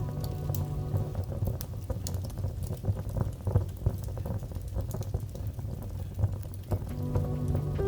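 Wood fire in a fireplace crackling steadily, with many small pops and snaps over a low rumble. A soft bed of held musical notes fades out about a second in and comes back near the end.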